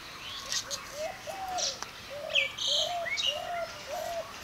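Birds calling: one bird repeats short, low, even notes about twice a second, while other birds chirp and twitter at a higher pitch.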